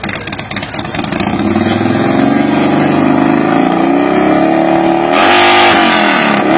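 Harley-Davidson motorcycle engine revved in an exhaust sound contest. A pulsing idle for about a second rises into a long rev held high, then a sharp blip up and back down near the end.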